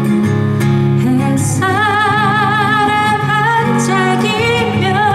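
A woman singing a slow Korean folk ballad live, with acoustic guitar accompaniment. From about a second and a half in she holds long notes with a wide vibrato.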